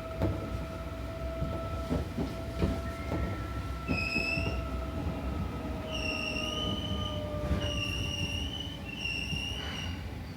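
Seibu New 2000 series electric train running, with a steady motor hum that slowly falls in pitch and clacks from rail joints. A high wheel squeal on a curve sounds briefly about four seconds in, then again from about six seconds nearly to the end.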